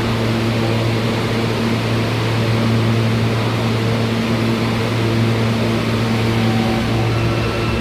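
New York City subway train in the station: a steady rumble under a low electrical hum, with a faint higher whine coming in near the end.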